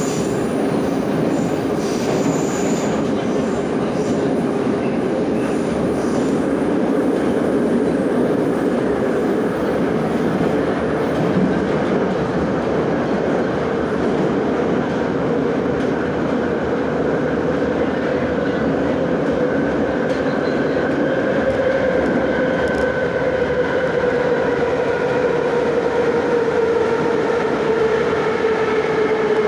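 Moscow metro 81-717/714 'Nomernoy' subway train running between stations, heard from inside the car: a steady rumble of wheels on rails with a whining hum from the traction motors. The whine sinks slightly in pitch near the end.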